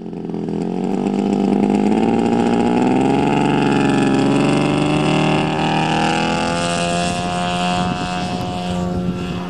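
ZDZ 100 two-stroke inline twin petrol engine of a large RC P-40 model running in flight, its pitch wavering up and down slightly, then settling a little lower and quieter about six seconds in.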